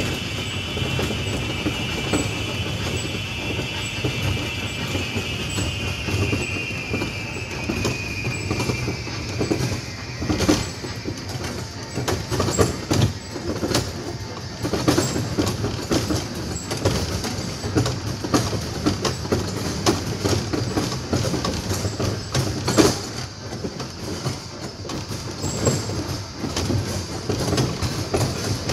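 A small visitor ride train running, a steady rumble with frequent rattles and clicks from the wheels and cars. A high wheel squeal at the start fades out about nine seconds in.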